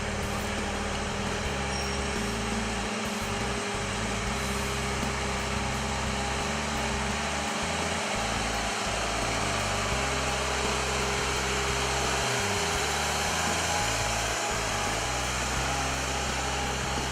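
Case IH 9270 tractor's diesel engine running steadily, a constant even hum with a few held tones.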